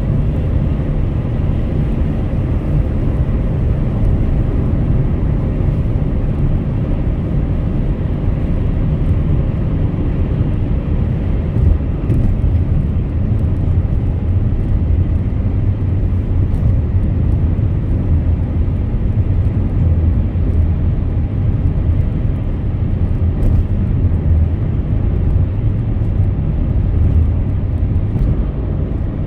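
Car driving at highway speed: a steady low rumble that holds evenly throughout.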